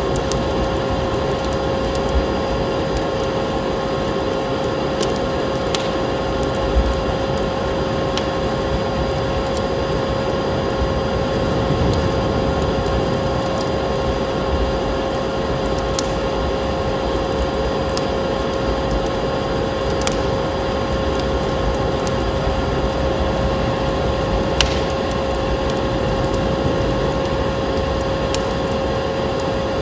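Wood fire crackling, with a sharp pop every few seconds, over a steady droning noise that carries a constant hum.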